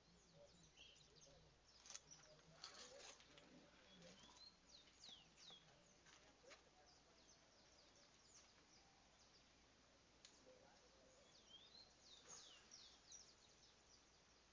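Faint outdoor ambience with scattered short, high bird chirps and quick falling whistles, and a few soft clicks.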